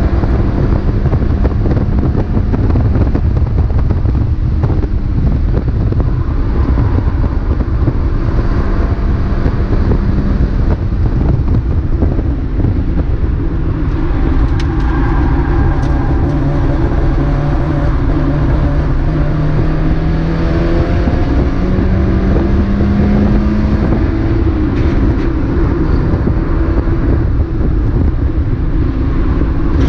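Mazda MX-5 race car's four-cylinder engine running at speed, heard onboard over heavy wind and road rumble. The engine note holds steady at first, then drops and climbs slowly again as the revs change through the second half.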